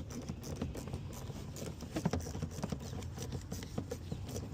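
Irregular light clicks and taps of hand tools and engine-bay parts being handled, over a low steady hum.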